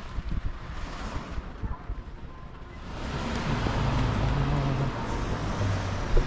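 Road vehicle noise: an engine's low hum and tyre noise swell up about three seconds in and hold steady, over gusty rumble from wind on the microphone.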